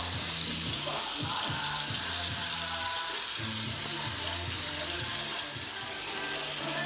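Steady sizzling hiss of food frying in a pan, with background music playing underneath.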